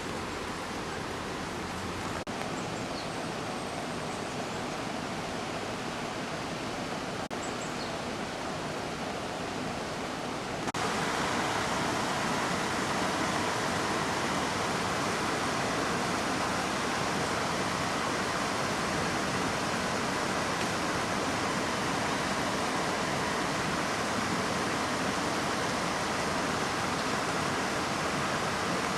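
Waterfall: a steady rush of falling water that gets louder in one step about a third of the way through, then holds level.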